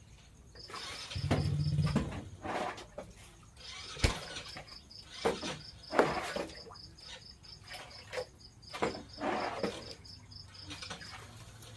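An insect, likely a cricket, chirping in a high, even, pulsed trill, with scattered knocks and clatter and a brief low hum about a second in.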